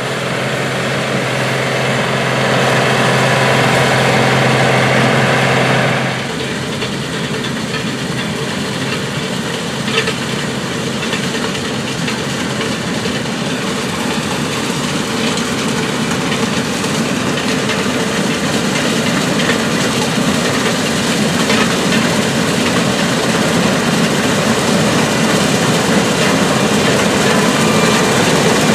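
Combine harvester running in the field, its diesel engine and threshing machinery giving a steady, heavy mechanical drone. About six seconds in, a steady hum drops out and the sound turns rougher. There is a single sharp click at around ten seconds.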